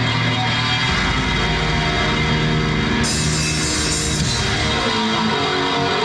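Live heavy rock band playing loud: distorted electric guitar, bass and drum kit, with cymbals crashing in about halfway through.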